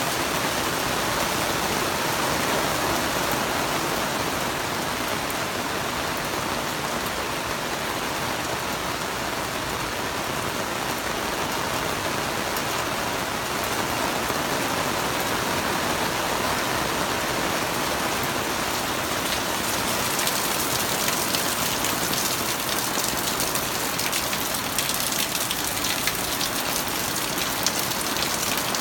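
Steady heavy rain falling, a constant hiss of water. From about two-thirds of the way through, many sharp ticks of individual drops hitting a surface stand out more clearly.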